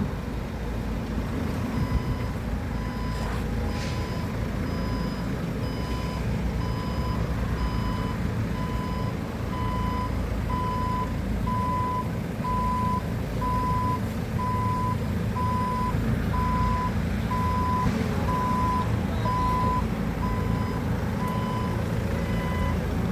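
Forklift's reversing alarm beeping about once a second over its running engine, growing louder toward the middle and fading again near the end as the machine moves past.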